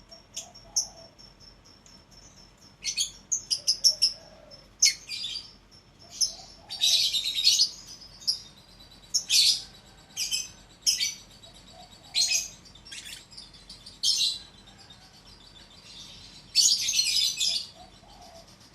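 Lovebirds calling with sharp high-pitched chirps, some single and some in quick runs, mixed with a few harsher calls about a second long.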